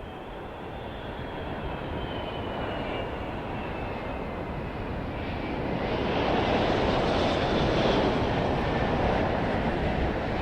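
Jet airliner's engines growing louder as it comes in low on landing approach, a high fan whine sliding down in pitch over the first few seconds; loudest about seven seconds in.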